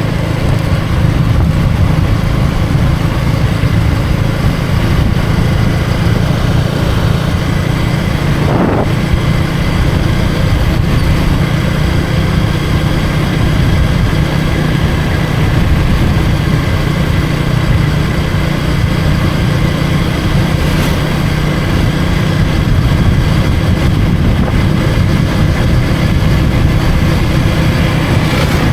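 KTM Duke 250's single-cylinder engine running at a steady pace under way, with wind and road noise rushing over it; the pitch holds steady with no revving or gear changes.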